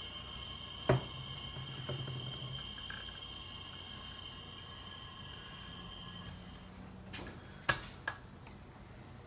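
Workbench handling sounds: a knock about a second in and three sharp clicks near the end, over a faint steady high whine that stops about six seconds in.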